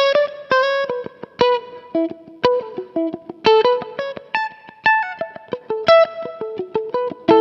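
Soloking MS-1 Custom HSS electric guitar playing a single-note melody, a few notes a second, each note picked and ringing briefly, with a lightly effected tone.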